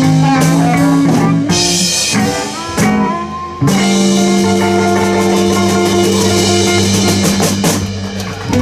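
Live blues band of electric guitar, bass and drum kit playing the closing bars of a song, then striking a final chord about four seconds in and holding it for several seconds before it stops.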